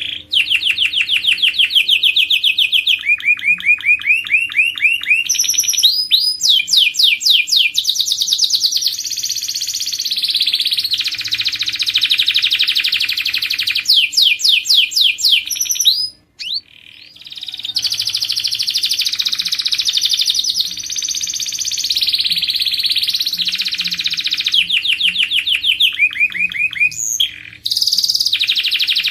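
Domestic canary singing: a long song of fast, rolling trills, each phrase a run of rapidly repeated notes that changes to a new pitch every second or two, with one brief pause about halfway through.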